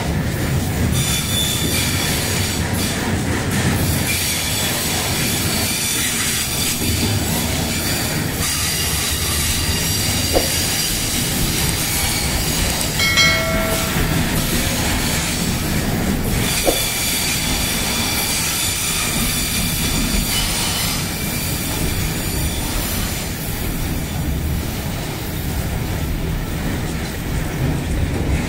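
Freight train of flatcars and container wagons rolling past close by: a steady rumble of steel wheels on the rails with a high wheel squeal that comes and goes, and some clickety-clack.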